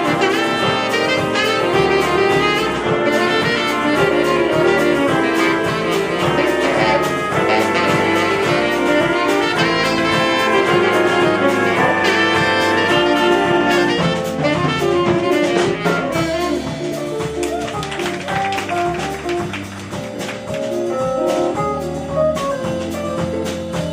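Jazz big band playing an instrumental number, the brass and saxophone sections sounding full ensemble chords over bass and drums. About two-thirds of the way through the horns thin out and the music drops a little in level, with cymbals coming forward.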